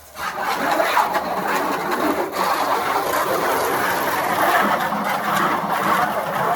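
A water pump running steadily and loudly, with a brief drop in the sound right at the start.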